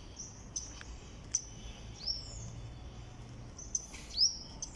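Birds chirping: a scattered series of short, high chirps, some with a quick upward hook, the loudest about four seconds in.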